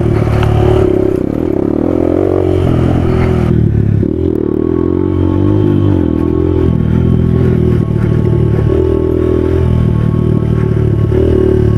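Suzuki DR200 single-cylinder four-stroke dirt bike engine being ridden hard, its pitch rising and dropping every second or two with throttle and gear changes, with some rattling from the bike over rough ground.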